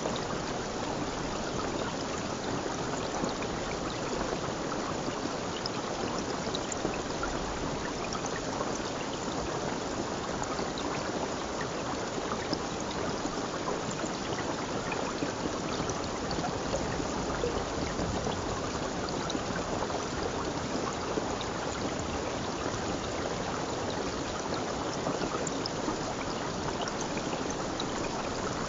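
Stream water flowing and trickling steadily, an even rushing with small scattered splashes.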